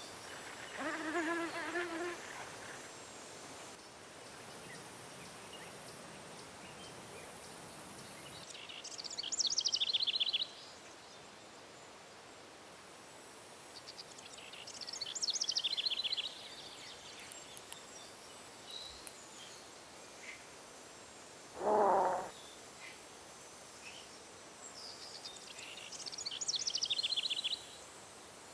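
Countryside ambience: a songbird sings the same short, high trilling phrase three times, several seconds apart, over a faint steady high hiss. There are two short lower-pitched calls, one near the start and one later on.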